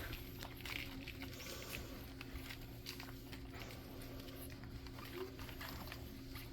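Two-week-old pug puppies nursing: faint, irregular little suckling and smacking clicks, over a steady low hum.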